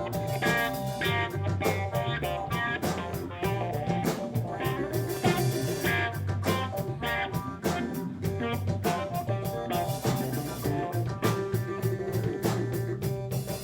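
Jam band playing: guitar lines over bass and a drum kit keeping a steady beat.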